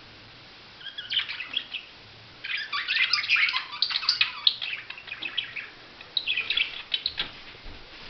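Budgerigar chattering, rapid chirps and warbles in three bouts, the longest in the middle.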